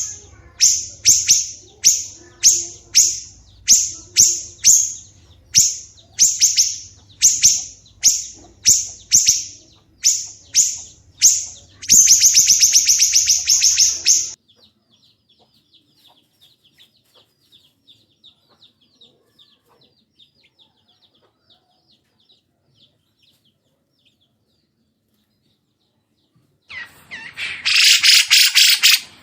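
Songbird calling: a loud, clear note repeated a little under twice a second, each note sliding down in pitch, then a fast trill about twelve seconds in. After a long stretch of faint twittering and a few seconds of quiet, a dense, loud burst of song near the end.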